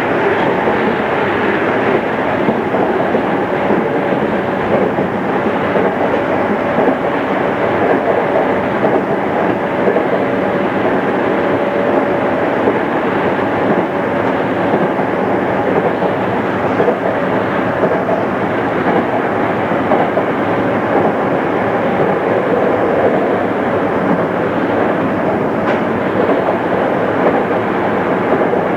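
JR East 211 series electric train running at speed, heard from inside the car: a steady rumble of wheels and running gear on the rails. A faint steady whine rides on it for several seconds in the first half.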